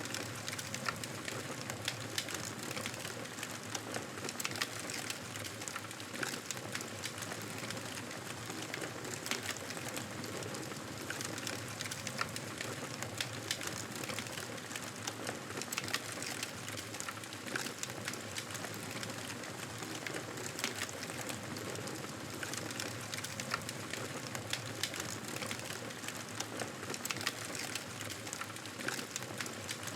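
Campfire burning, a steady hiss with many sharp crackles and pops scattered irregularly.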